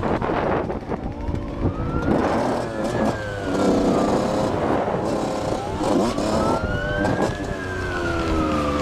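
Emergency vehicle siren wailing in two slow rise-and-fall sweeps over running engine and traffic noise.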